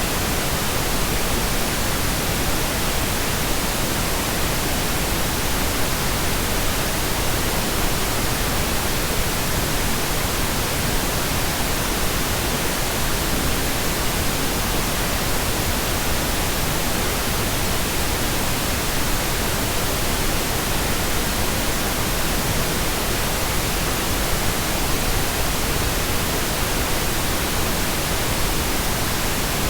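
Steady, unchanging pink noise: a smooth even hiss spread across the whole range of pitch, with no tones or events.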